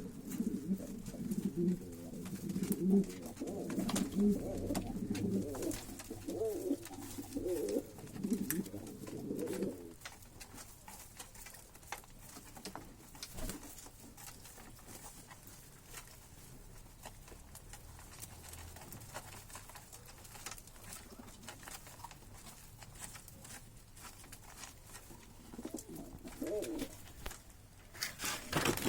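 Pigeons cooing: low, repeated coos through the first ten seconds, then quieter, with a few more coos near the end.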